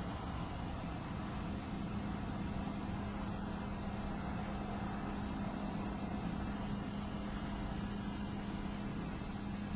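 Steady hiss and hum of an empty room picked up by a camcorder's microphone, with the high-pitched whine of the camera's own hard drive, which steps down in pitch about a second in, up again past the middle, and down near the end. A low steady hum comes in about a second in.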